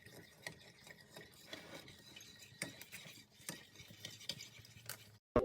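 A spoon stirring in a small bowl or cup to dissolve an ingredient, with light, irregular clinks against the sides.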